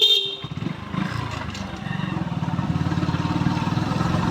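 A short horn beep at the very start, then a motorcycle engine running steadily under way with an even, rapid pulse, growing slightly louder.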